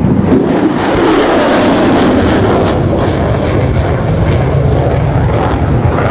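F-35C Lightning II's Pratt & Whitney F135 jet engine, very loud as the fighter flies past, starting suddenly and crackling for the first few seconds.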